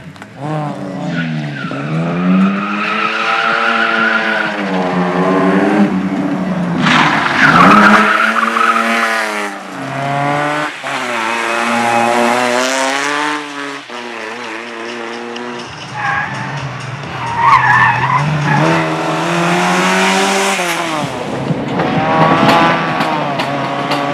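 Car engine revving hard through a slalom course, its pitch climbing and falling again and again with gear changes and lifts. Tyres squeal through several of the turns.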